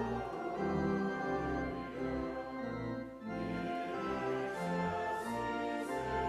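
Church organ playing a hymn tune in sustained chords that change every half second or so, with a short dip in the sound about three seconds in.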